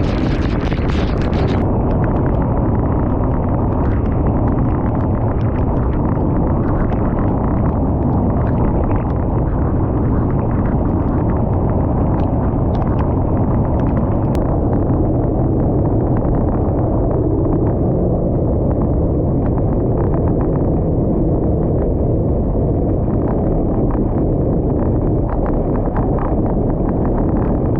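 Heavy wind buffeting on the microphone of a moving scooter, a loud steady rumble with the scooter's ride noise underneath.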